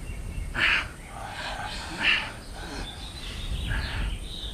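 Birds calling in outdoor ambience: two short harsh calls, then a few faint chirps near the end, over a low steady background rumble.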